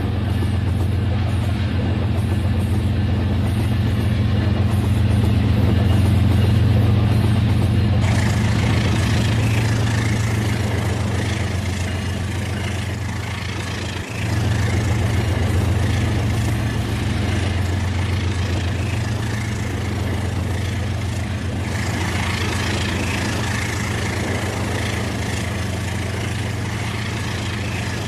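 Battery-powered Rail King toy train running on its track: a steady electric motor hum with wheel noise, getting hissier about eight seconds in and again near the end.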